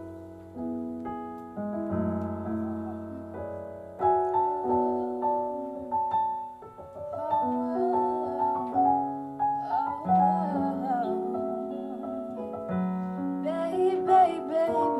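Song intro on electric piano: held keyboard chords under a melody line, with a drum beat's hi-hat ticks coming in near the end.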